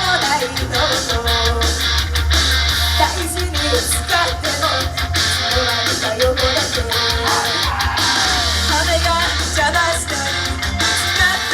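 Loud live idol-rock music through a club PA: electric guitar and drums with a sung vocal line, and some shouting over it.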